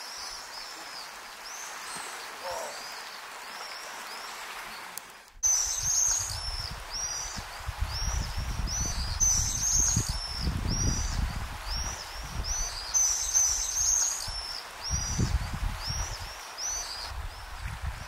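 Small birds chirping over and over, a steady run of short high chirps. About five seconds in, the sound cuts to a louder stretch where gusts of wind rumble on the microphone beneath the chirping.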